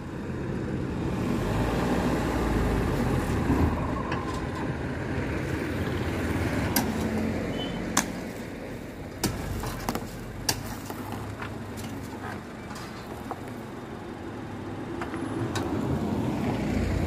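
Tata Nexon SUV's engine running steadily at low speed, with a few sharp clicks in the middle stretch.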